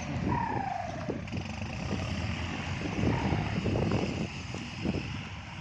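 Kubota MU4902 tractor's diesel engine running under load while pulling a disc plough through overgrown ground, with irregular knocks and crackles over it and a short falling whistle about half a second in.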